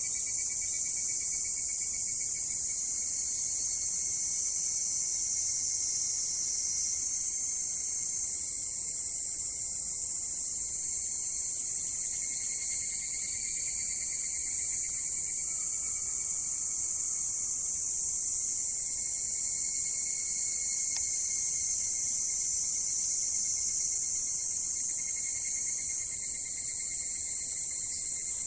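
A chorus of insects calling steadily, a dense high-pitched chirring that never lets up, with a fainter, lower continuous trill beneath it.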